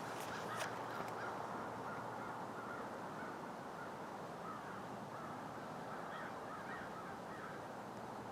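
Birds calling faintly and intermittently over a steady hiss of outdoor background noise, with a few sharp clicks in the first second.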